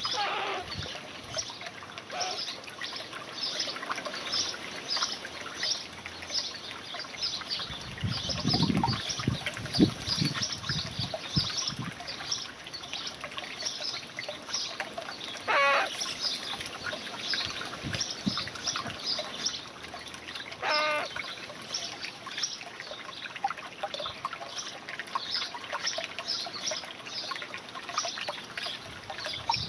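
Small birds chirping over and over in quick succession, with two short rattling calls about halfway through and some low thumps.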